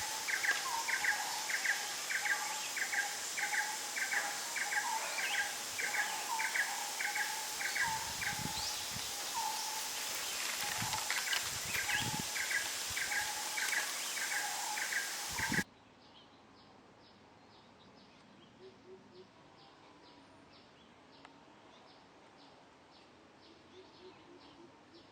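Wild birds calling over a steady hiss: one bird repeats a quick doubled note a few times a second while another gives lower single notes. Near the middle the sound cuts off sharply to a much quieter recording of faint, evenly repeated high ticking calls, about two a second.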